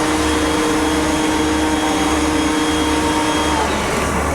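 CNC engraving machine running: a steady whine from its air-cooled spindle over a steady noise, with the whine's tones dropping out about three and a half seconds in.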